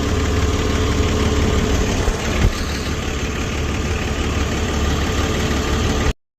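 5.9 Cummins 12-valve inline-six turbodiesel idling steadily, with a brief thump about two and a half seconds in. The sound cuts off suddenly near the end.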